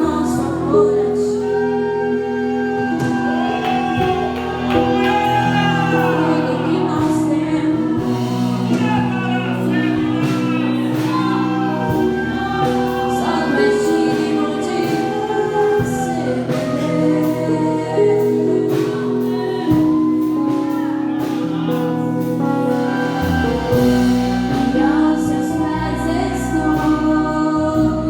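Live gospel worship music: voices singing over sustained instrumental chords, with sharp percussive hits scattered through it.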